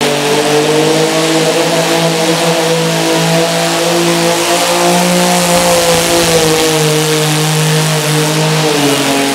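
Modified pulling lawn tractor's engine running hard at steady high revs, its pitch rising slightly midway and dropping near the end as it eases off.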